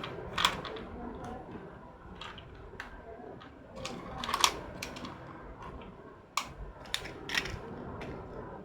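Irregular light clicks and clacks of small hard objects, a few each second and some sharper than others, over a faint low rumble.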